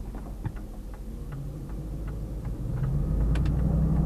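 Truck's turn signal ticking steadily inside the cab, then about two and a half seconds in the engine rumble grows louder as the truck pulls away and accelerates.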